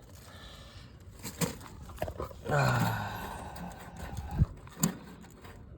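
A few light clicks and knocks of hands working on equipment, with one short low voiced sound, falling slightly in pitch, about two and a half seconds in.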